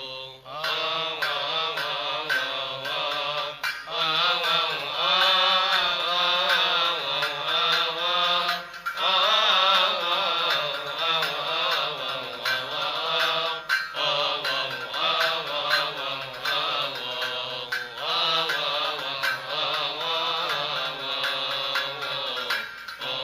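A priest's solo male voice chanting a Coptic Orthodox hymn in long, wavering melismatic phrases, pausing briefly for breath every four to five seconds.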